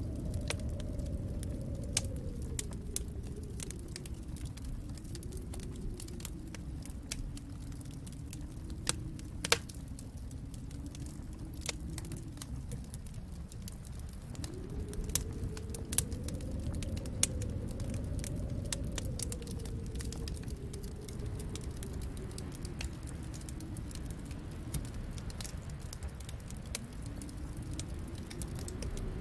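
Wood fire crackling in a fireplace: scattered sharp pops and snaps, a few louder than the rest, over a low rumble that swells and eases.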